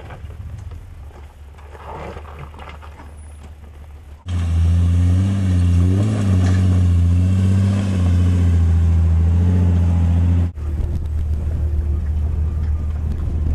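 Jeep Wrangler engines working down a rocky off-road trail. A faint engine and rough ground noise give way suddenly, about four seconds in, to a loud, steady engine drone that rises and dips slightly under load. It drops off abruptly near the end into a steadier, lower engine drone heard from inside the cab.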